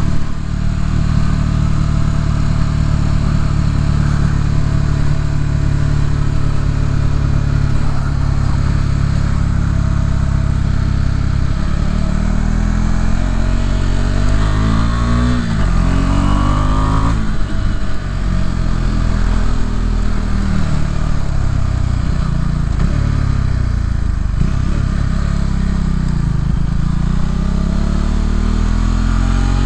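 Motorcycle engine running under way, heard from the bike. It holds a steady pitch for the first ten seconds or so, then rises and falls in pitch again and again as the revs change.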